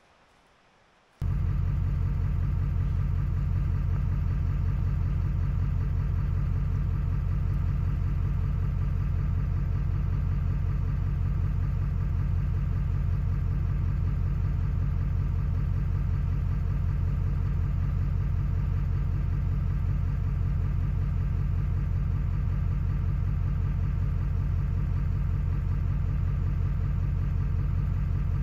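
An engine running steadily at an even idle, cutting in suddenly about a second in.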